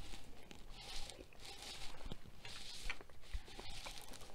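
Close-miked chewing of food: soft, wet mouth and lip noises recurring about once a second, with a few small clicks.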